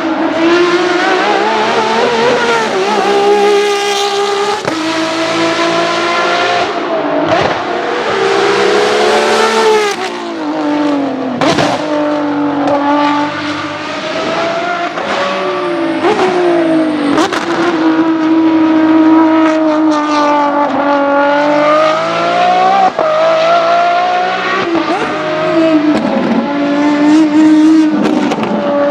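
Ferrari 599XX race cars' V12 engines at full throttle on track. The engine note climbs in pitch through each gear and drops sharply at the shifts and downshifts, again and again.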